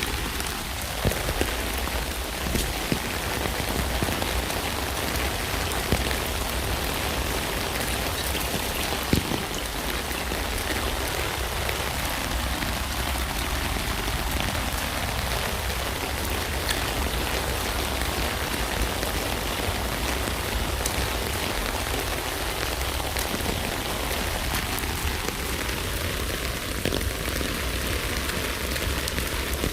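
Steady rain falling on a tent: an even hiss with many sharp, separate drop ticks scattered through it.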